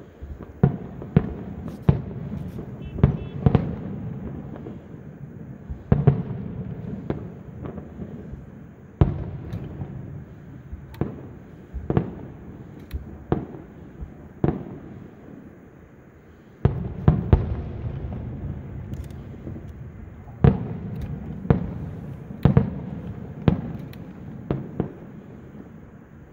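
Fireworks display: sharp bangs of bursting shells, irregular at about one or two a second, over a continuous low rumble. The bangs thin out briefly about two thirds of the way through, then the barrage picks up again suddenly.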